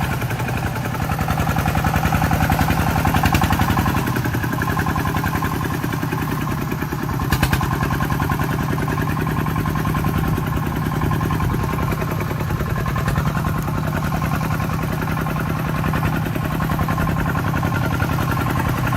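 Diesel engine of a farm truck or tractor running steadily, with a rapid, even pulse.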